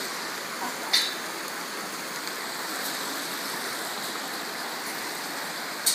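Steady rushing of flowing water from a mountain stream or waterfall, with a sharp click about a second in and another near the end.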